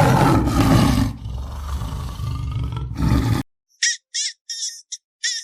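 A large animal roaring loudly for about three seconds, then a quick run of short, high-pitched animal calls.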